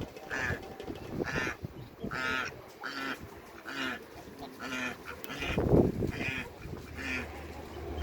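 Domestic ducks quacking over and over, about one call a second, with one louder, deeper sound a little past halfway.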